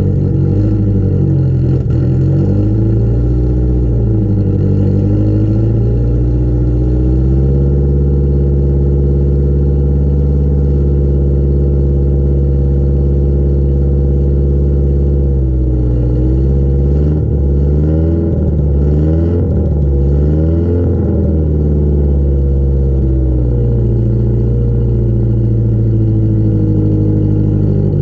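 Exhaust note of a 1973 Fiat Spider's 1608 cc twin-cam four-cylinder engine through an aftermarket tubular header and turbo-tube muffler. The engine revs up, holds a steady speed for several seconds, then is blipped several times in quick succession a little past halfway before settling back to a steady lower speed.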